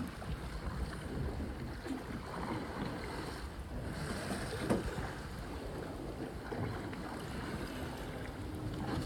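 Wind buffeting the microphone over the steady wash of sea water around a small fishing boat.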